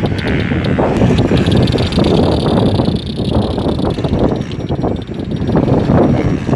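Motocross bike engines running and revving on a dirt circuit, loud and rough, with a faint falling engine note in the first second.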